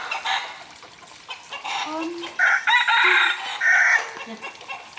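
Chickens calling: a rooster crows once, loud and drawn out, about halfway through, with short clucking calls before and after.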